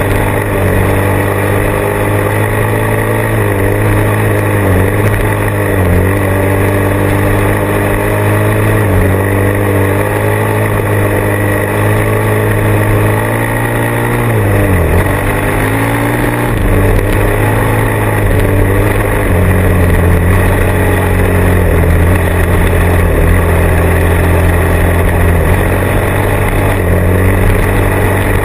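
Motorcycle engine running under way, its pitch dipping and recovering several times as the throttle and gears change, most deeply about fifteen seconds in, then holding steady near the end.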